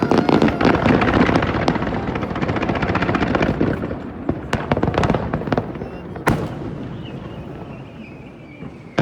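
Fireworks bursting: a dense volley of crackles and booms in the first few seconds, a few single sharp bangs around the middle, then the noise fades away toward the end.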